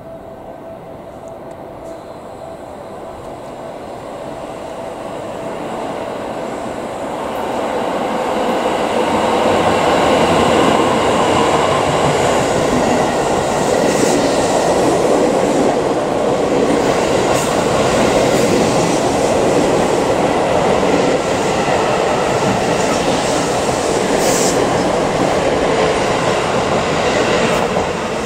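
Seibu 9000 series electric commuter train passing through a station at speed without stopping. The rumble of its approach builds over the first eight seconds or so, then a long, loud run of wheels on rail with a few sharp clacks, easing off near the end as the last car goes by.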